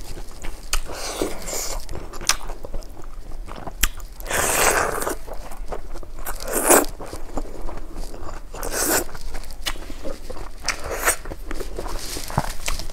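Close-miked eating by hand: chewing and crunching with mouth smacks, broken by several louder noisy bursts each under a second long.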